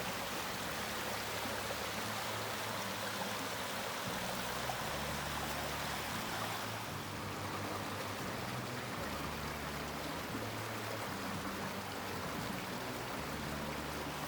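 A stream's running water, a steady rush.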